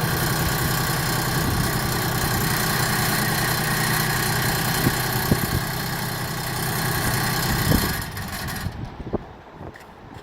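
Compact diesel tractor engine idling steadily, with a few light knocks, then stopping about eight and a half seconds in.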